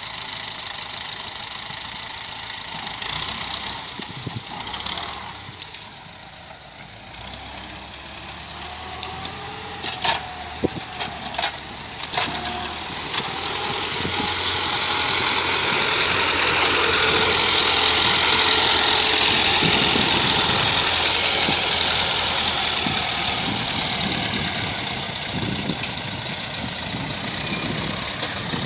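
T-40 tractor's air-cooled diesel engine running, with a few sharp knocks about ten to twelve seconds in. It then grows louder, holds high for several seconds past the middle, and eases back toward the end.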